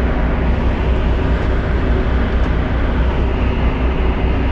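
Steady low drone of a passenger ferry's engines, heard from aboard.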